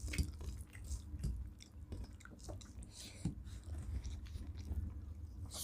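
People chewing a mouthful of rice and shukto, with irregular wet clicks and smacks of the mouth, and a louder smack about three seconds in.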